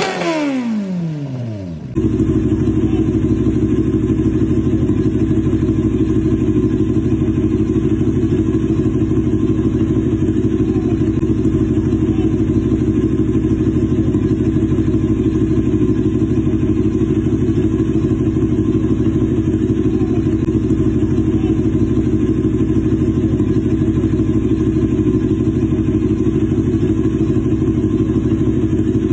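Big-bike motorcycle engine running at a steady idle, an even rumble that holds without revving. It is preceded by a falling tone that cuts off about two seconds in.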